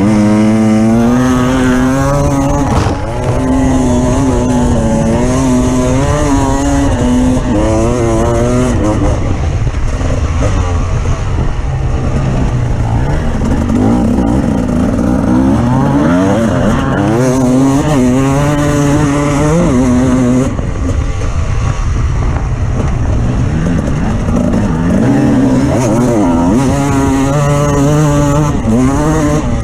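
Off-road vehicle engine running loud under load, its revs rising and falling again and again as it is driven.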